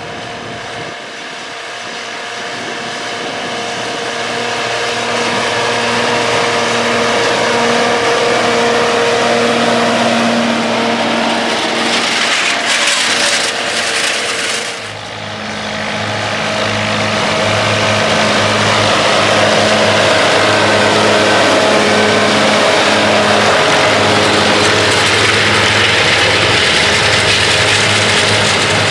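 John Deere 4430 tractor's six-cylinder diesel engine running steadily under load while pulling a John Deere 568 round baler, growing louder over the first few seconds. About halfway through there is a brief noisy rush and a short dip, after which the engine note settles at a different pitch and holds.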